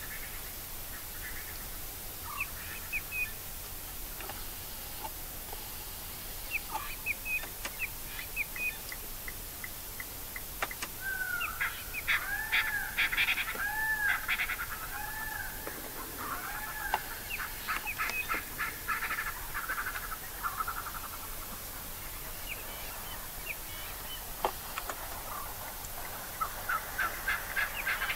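Birds calling: a run of repeated arching calls mixed with fast chattering notes in the middle, with scattered short high calls before and after.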